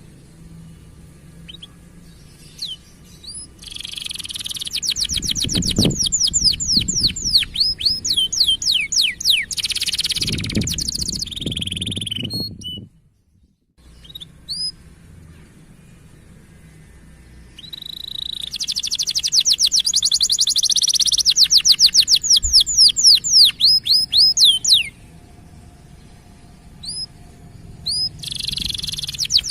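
Canary song: long bouts of fast, high trills and rapid chirp series, used to stir female canaries into breeding condition. There are two long bouts and a short third one near the end.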